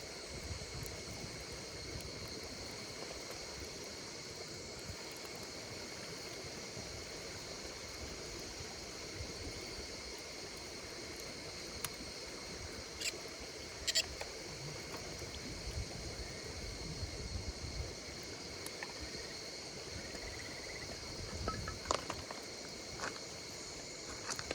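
Insects trilling steadily in several high pitches, with a few sharp crackles and pops from a wood campfire, mostly in the second half.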